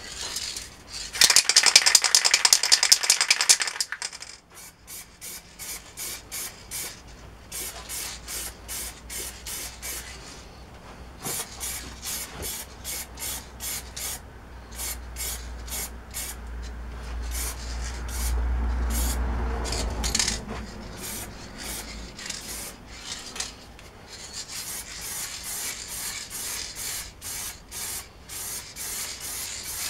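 Hand scrubbing of an electric motor part: rapid back-and-forth rubbing strokes, a fast loud run about a second in, then steady strokes about twice a second. A low rumble swells and fades in the middle.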